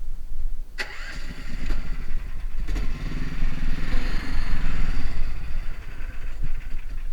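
Engine of a karakat, a homemade low-pressure-tyre all-terrain vehicle, running, with a sharp knock about a second in and a clearer, steadier engine note through the middle.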